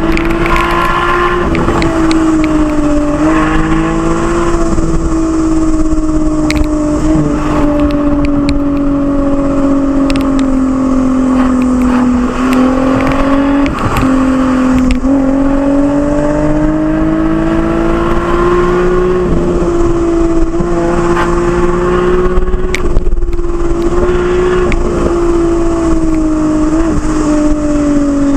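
Lexus IS with an aftermarket Fi exhaust running under load, a loud steady drone that slowly rises and falls in pitch with throttle, with a few brief dips as the throttle is lifted or gears change.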